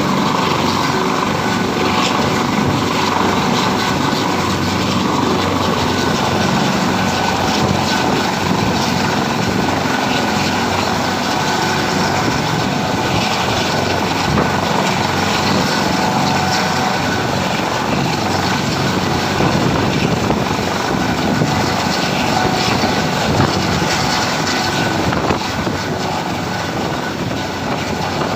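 Helicopter running steadily, a continuous engine and rotor noise that eases off slightly near the end.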